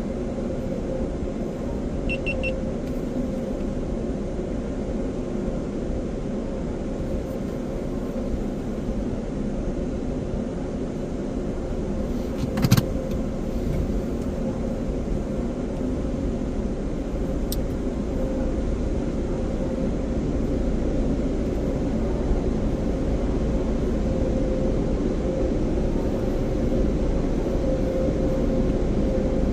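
A car idling with a steady low rumble and a faint steady hum, with one sharp knock about halfway through.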